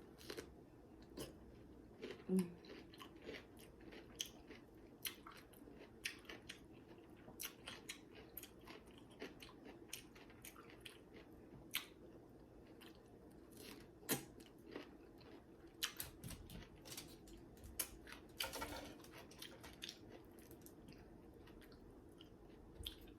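A person chewing and crunching food close to the microphone, with many quick, irregular mouth clicks and crackles.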